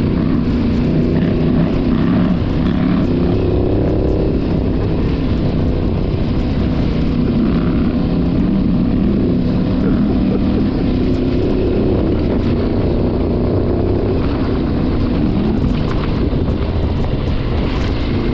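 Parallel-twin adventure motorcycle engine running at a steady cruise, its note drifting only slightly up and down, with low wind rumble on the microphone.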